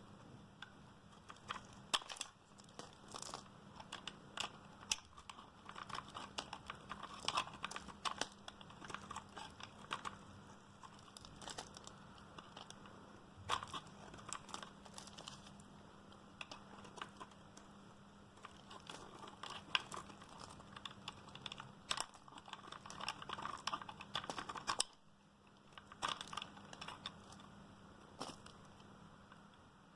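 Dry, hard Duru bar soap being cut: a steady run of sharp crunching clicks and crackles as it breaks away, with a brief pause about three-quarters of the way through.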